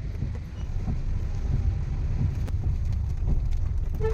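Low, steady rumble of a car driving, heard from inside the cabin, with a few faint clicks.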